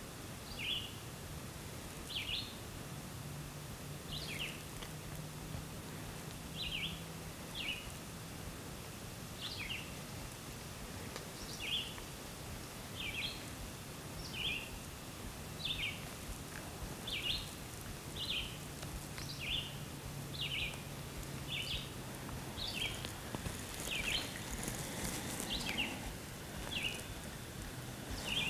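A bird repeating a short, high chirp about once a second, each a quick two-part note, over quiet outdoor background noise.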